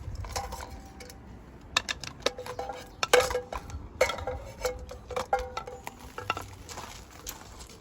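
Tableware clinking: a run of sharp, briefly ringing knocks, thickest in the middle of the stretch.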